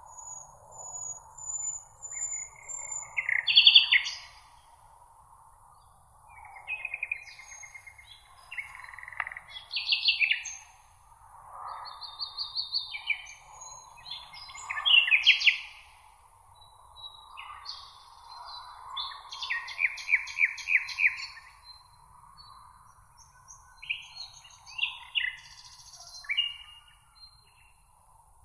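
Birds singing in meadow ambience: short, varied phrases and rapid trills follow one another every second or two, over a steady high hiss.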